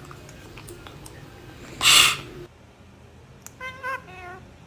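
A short, loud hiss-like rush of noise about two seconds in, then a wavering meow-like call near the end.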